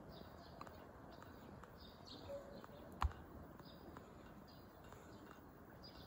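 Faint, short, high bird chirps repeating every second or so over a low steady hiss, with one sharp click about halfway through.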